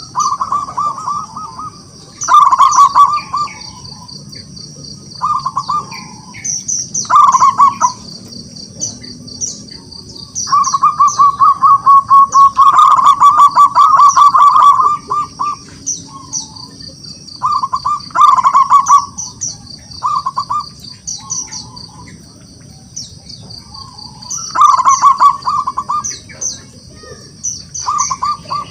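Zebra dove (perkutut) cooing in repeated bursts of rapid staccato notes, one long run about ten seconds in. Thin high chirps of other small birds run throughout.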